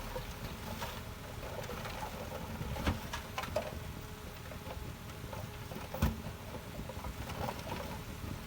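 Heavy earthmoving machinery running with a steady low rumble, with a few sharp knocks, the loudest about six seconds in.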